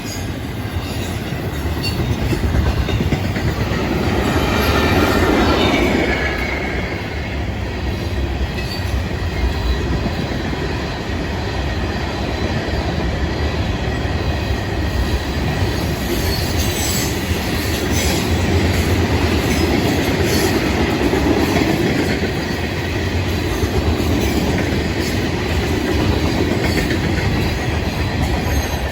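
Florida East Coast Railway freight train rolling past: a steady rumble of wheels on rail with clacking over the joints and occasional high wheel squeal, swelling louder about five seconds in.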